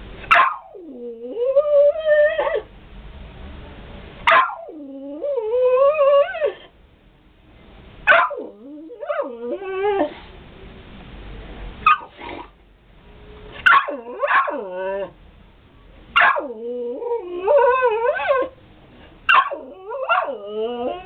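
A dog giving a string of wavering whining howls, about seven in all, each a second or two long and starting with a sharp yelp.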